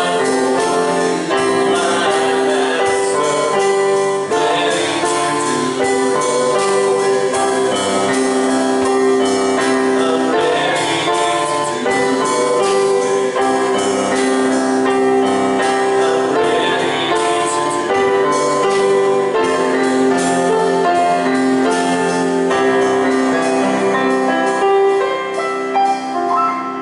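Church worship music: piano or keyboard chords with singing, held notes sustained at a steady, full level.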